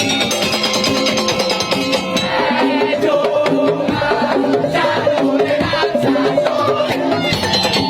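Madurese daul percussion ensemble playing a saronen (double-reed shawm) piece: a sustained reedy melody over a steady, repeating beat of drums and struck percussion.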